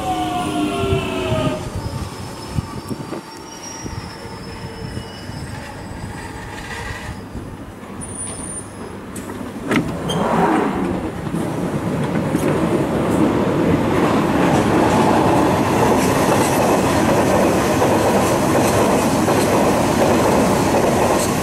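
London Underground Jubilee line 1996-stock train. Its motor whine falls in pitch as it brakes and fades out within the first second or two, then it stands quietly. About ten seconds in comes a sharp click, followed by a loud, steady rushing rail noise that lasts to the end.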